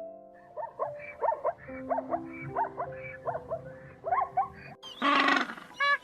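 A run of about ten short, rising-and-falling animal calls over background music with held notes, followed near the end by a louder, harsher animal call.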